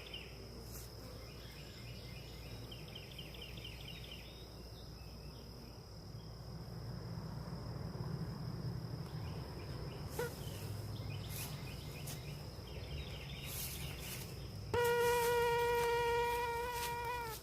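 Honeybees humming low over an open hive, with crickets chirping in repeated trills. Near the end a single bee buzzes close to the microphone for a couple of seconds, a loud, steady, pitched buzz.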